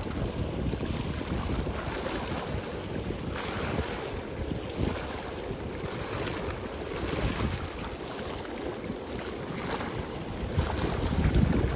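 Sea waves washing onto the beach in repeated surges, with wind buffeting the microphone in gusts, strongest near the end.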